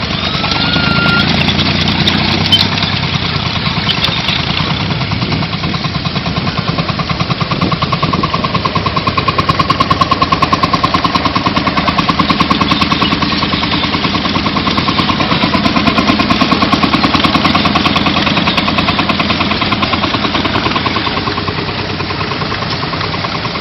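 An old engine running with a fast, even beat, getting louder through the middle and easing off near the end.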